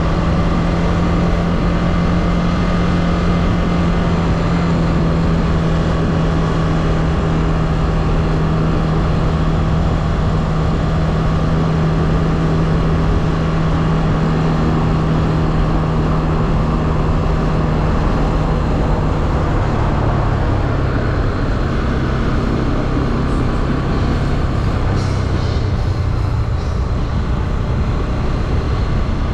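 Motorcycle engine running steadily under way, with wind and road noise. About twenty seconds in, the engine note drops lower as the revs fall, and it carries on at the lower pitch.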